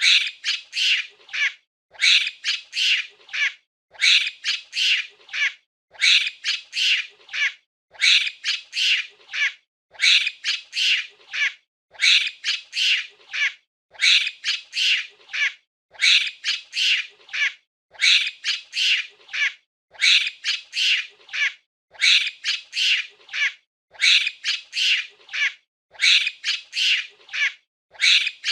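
Monkey calling in quick groups of four or five high-pitched, squeaky calls. The same group repeats every two seconds, with a brief gap between groups.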